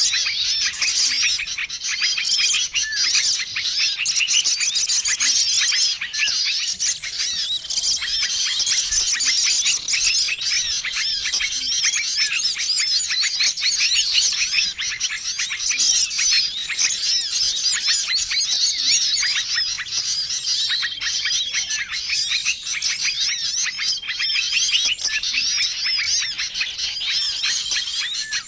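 Bird-lure recording of many small birds calling at once: a dense, unbroken chorus of chirps, twitters and trills, with a short level whistle recurring every couple of seconds.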